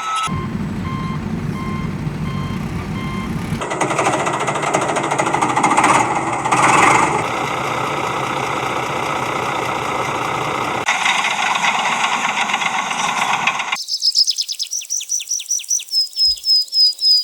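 Heavy-vehicle engine running, with a reversing beeper sounding about once a second at first. The engine sound changes abruptly several times. In the last few seconds it gives way to a rapid run of high, falling chirps, about three or four a second.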